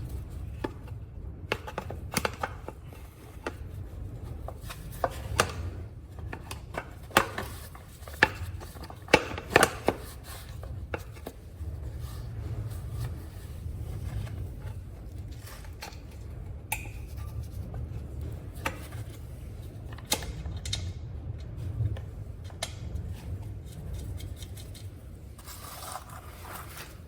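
Irregular clicks, taps and light knocks of parts and hand tools being handled as a motorcycle's chain cover is fitted back on, with some rubbing and scraping. A steady low hum runs underneath.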